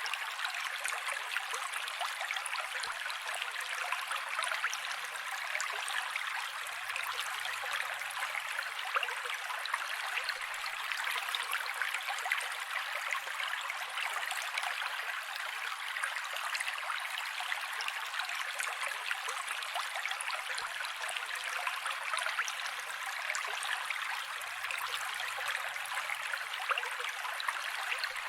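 Mountain creek flowing: a steady, even rush of running water, bright and hissy with almost no low rumble.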